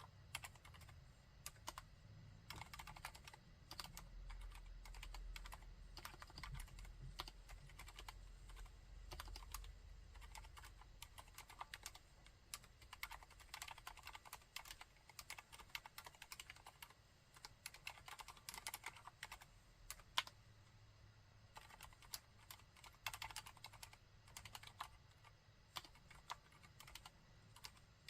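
Typing on a Mistel MD600 Alpha split mechanical keyboard fitted with Cherry MX Silent Red switches: quiet, rapid keystrokes in uneven runs, the dampened sound of silent linear switches.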